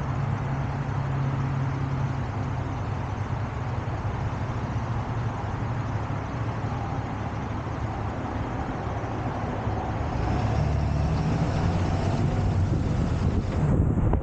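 Tow truck engine running steadily with road and traffic noise, getting louder about ten seconds in.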